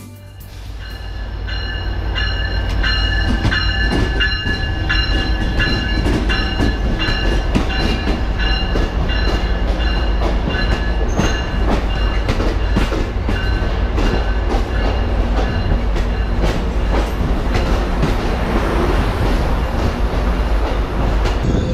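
Amtrak Pacific Surfliner bilevel passenger train running close by at the platform: a steady low rumble with clicking from the rails and several steady high whining tones over it, swelling up in the first two seconds.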